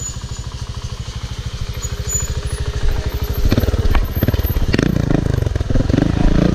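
Off-road motorcycle engine running at idle with a fast, even putter. It grows louder about halfway through, with a couple of sharp knocks or clatters.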